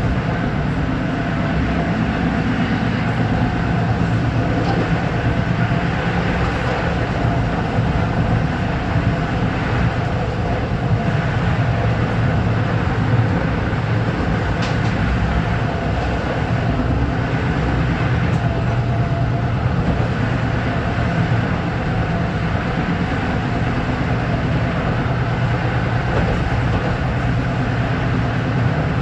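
LIRR M3 electric multiple-unit train under way, a steady rumble of wheels on rail and running gear that holds even throughout.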